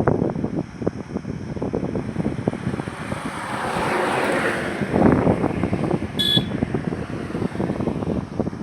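Highway traffic with a vehicle passing close by, rising to a rush about four seconds in and fading away. Wind buffets the microphone throughout, and a short high-pitched tone sounds a little after six seconds.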